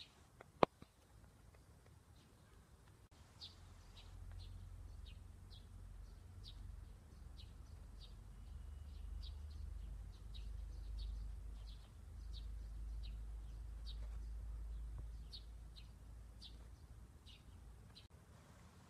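A small bird chirping over and over, short high chirps about two a second, above a low rumble. A single sharp click sounds near the start.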